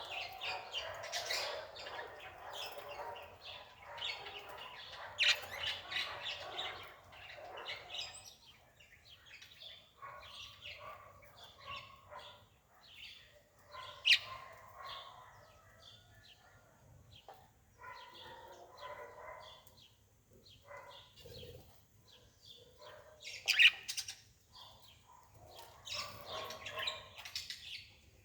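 Birds chirping and calling, a busy run of short chirps with a few louder, sharper calls scattered through.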